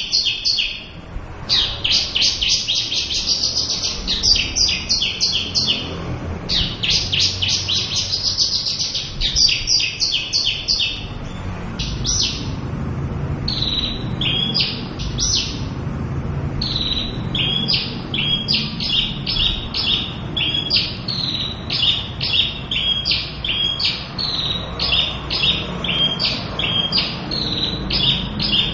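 Javan bush lark singing a long, varied song: rapid high trills in the first half, then a quick series of short down-slurred notes, two or three a second.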